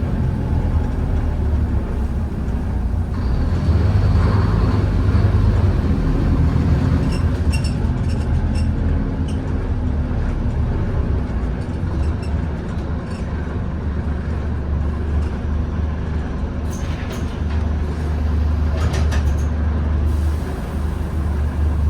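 Scania N230UD Omnicity double-decker bus heard from on board, its five-cylinder diesel engine running steadily under way as a low drone. The engine note grows louder for a few seconds near the start. A few short clicks or rattles come in the second half.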